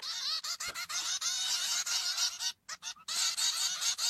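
Birds calling rapidly: many short, arched chirping calls overlapping, with a brief break about two and a half seconds in.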